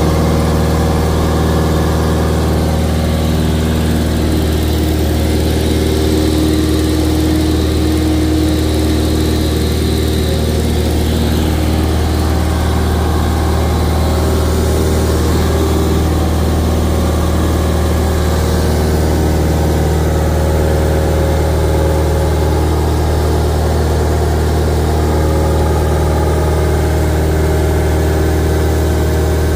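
Cessna 172's piston engine and propeller running steadily, heard from inside the cockpit: an even, unchanging drone, strongest in the low end.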